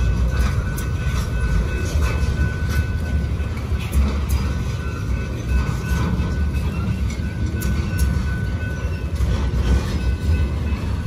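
Intermodal freight train of semi-trailers on spine cars rolling past at close range: a steady heavy rumble of steel wheels on rail, with irregular clicks and a thin high whine from the wheels that fades in and out.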